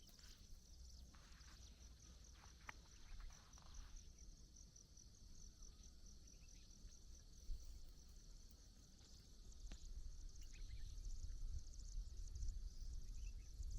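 Insects chirring steadily in a high, fast-pulsing trill over a low rumble that grows near the end, with a few light clicks in the first few seconds.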